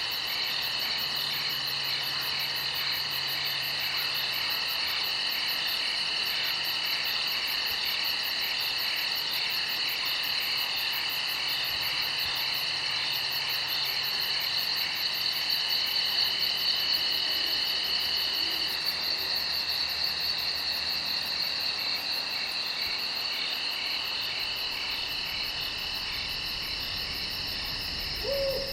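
Night chorus of crickets, several continuous trilling songs at different pitches overlapping, with a faint pulsing line low down in the first few seconds.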